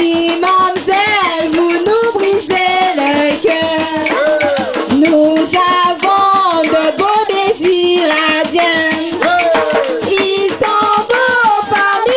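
A group singing a Creole folk song, with a shaker rattling steadily in time.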